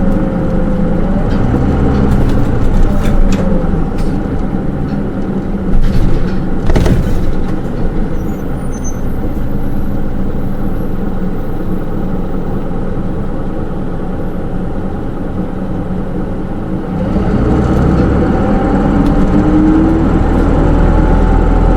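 Inside a Hino Rainbow II SDG-KR290J1 city bus with automatic transmission: diesel engine and road noise while under way, with a sharp knock about seven seconds in. The engine falls quieter through the middle, then grows louder again about seventeen seconds in with a rising whine.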